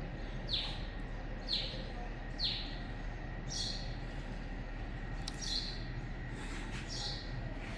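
A bird repeating a short, high, falling chirp about once a second, over a steady low hum.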